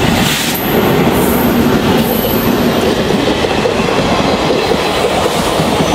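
A train passing close by on the track: a loud, steady rumble of its wheels running over the rails.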